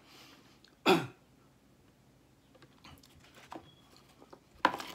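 Close-miked eating sounds of a man chewing the last of a Filet-O-Fish, with one loud wet mouth smack about a second in and faint small clicks after it. Near the end a short sharp sound as the empty cardboard sandwich box is picked up.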